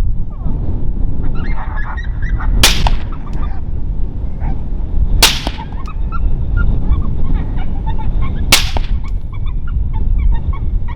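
Three rifle shots a few seconds apart, taken at a charging coyote, over heavy wind rumble on the microphone.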